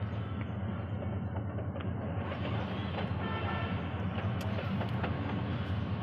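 Approaching train's diesel locomotive: a steady low rumble that slowly grows louder as it nears.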